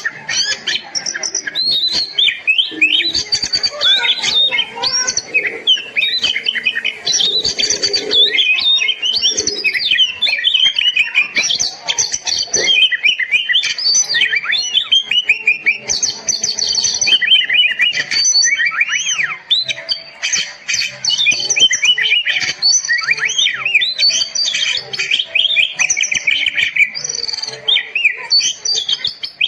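Oriental magpie-robin (kacer) singing a continuous, varied song of rapid whistles, trills and chattering notes.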